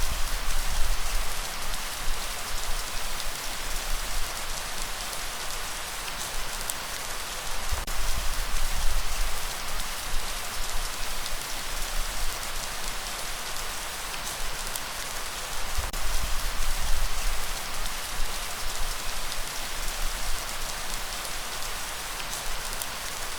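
Steady heavy rain hiss, with a low rumble that swells and fades about every eight seconds.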